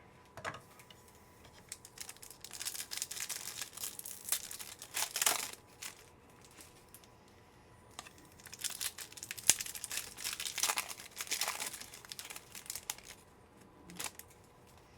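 Trading-card pack wrappers crinkling and tearing as packs are ripped open, in two spells of a few seconds each with quieter handling between them.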